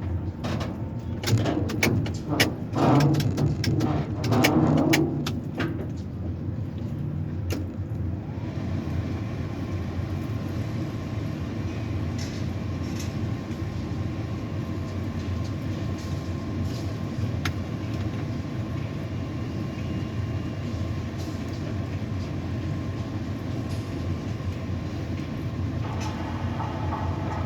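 Tower crane machinery running with a steady hum, heard from the operator's cab. Over the first eight seconds or so there is a run of sharp clicks and knocks.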